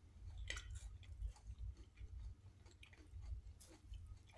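Faint chewing of a protein bar: soft, irregular mouth clicks and squishes, over a low steady hum.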